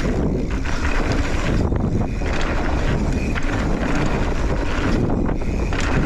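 Wind rushing over the microphone of a moving mountain bike, with its tyres rumbling over dirt and scattered short knocks and rattles from the bike.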